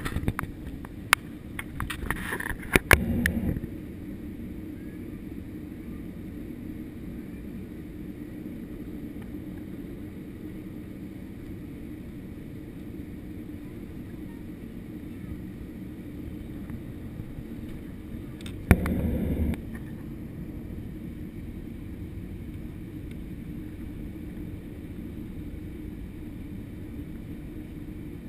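Steady low drone inside a JetBlue Airbus A320's cabin in flight, from engines and airflow on approach. Several sharp clicks and knocks in the first few seconds, and one brief louder bump about two-thirds of the way through.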